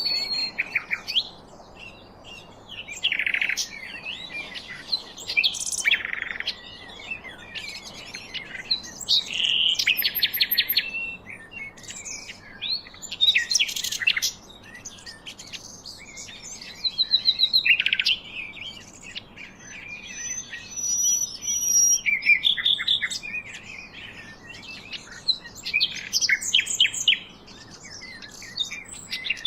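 Several birds chirping and calling, with many short calls, quick trills and thin whistled notes overlapping one after another, over a faint steady hiss.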